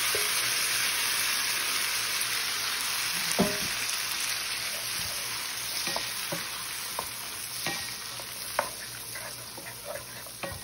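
Corn kernels, just tipped into a hot skillet of butter and bacon grease, sizzling with a steady hiss that slowly eases off. From a few seconds in, a spoon stirring them adds scattered light clicks and scrapes.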